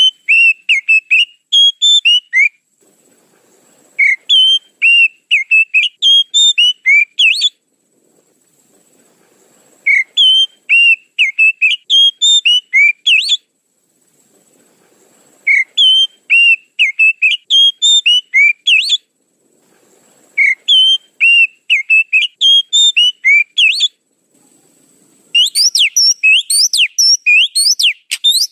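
Oriental magpie-robin (kacer) lure call: quick strings of sharp whistled notes in phrases of about three seconds, repeated roughly every six seconds. Near the end a faster, higher, denser run begins.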